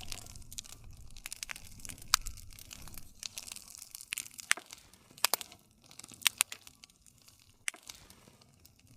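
Wood fire crackling, with frequent sharp pops and snaps at irregular intervals over a soft hiss.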